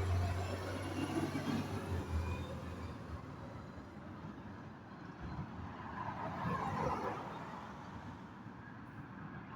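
Garbage truck engine pulling away. Its low engine hum fades after about two seconds, leaving fainter vehicle noise that swells a little past the middle.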